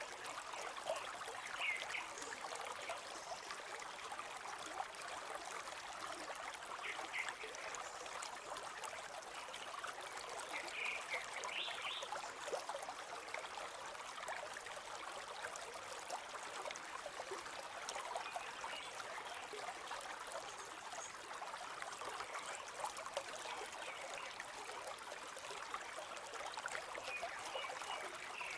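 A river flowing steadily over rocks, with a continuous, even rushing and trickling.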